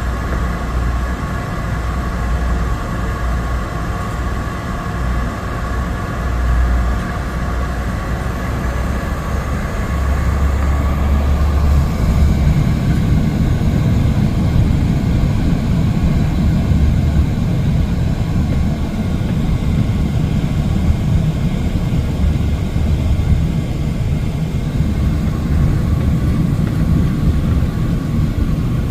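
Cabin noise of a Cessna 208 Caravan's PT6A turboprop running steadily. About twelve seconds in, the higher whine fades and a louder, deeper rumble takes over, which suggests a change in engine power.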